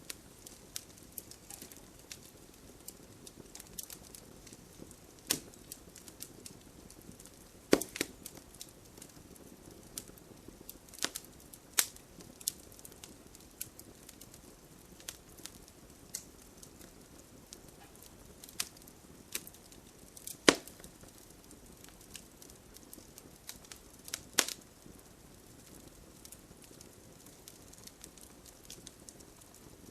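Wood campfire crackling: a soft steady hiss with scattered sharp pops and snaps at irregular moments, the loudest about 8, 12 and 20 seconds in.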